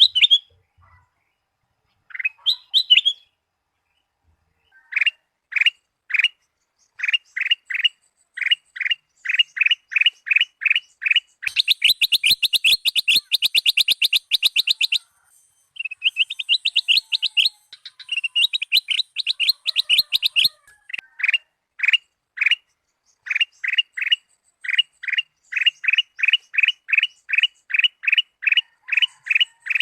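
A kutilang emas, a bulbul, singing: a long string of short, sharp whistled chirps, a few a second and quickening. Near the middle it breaks into a fast, dense chatter, then a second rapid run, before returning to the quick chirps.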